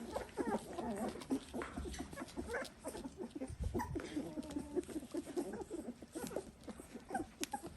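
A litter of three-week-old Dalmatian puppies squeaking and grunting, with many short overlapping little calls and small clicks throughout.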